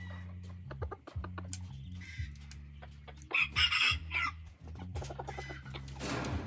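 Hybrid junglefowl roosters and hens clucking, with one rooster crowing loudly about halfway through. Music plays underneath.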